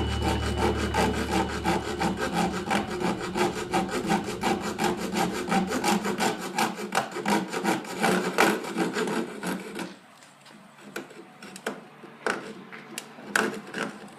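Hand saw cutting a thin strip of wood with quick, even back-and-forth strokes. The sawing stops about ten seconds in, followed by a few light knocks as the wood is handled.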